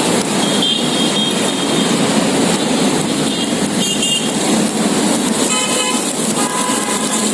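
Steady street traffic noise, with short high chirps early on and about four seconds in, and a vehicle horn tooting about two-thirds through.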